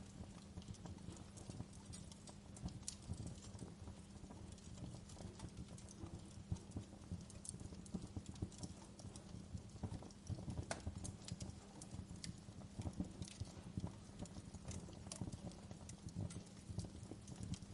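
Wood fire burning in a fireplace, crackling with irregular small pops and snaps over a low rumble and a steady low hum.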